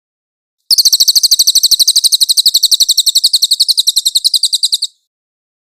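A songbird's fast, even trill of high notes, about ten a second, running for about four seconds and then stopping abruptly.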